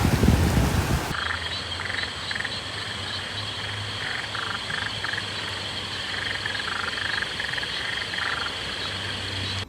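A chorus of frogs croaking: short pulsed calls repeating irregularly over a steady high-pitched background, beginning after about a second of rushing noise.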